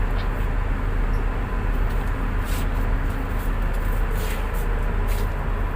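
Tugboat engine running steadily, a constant low drone.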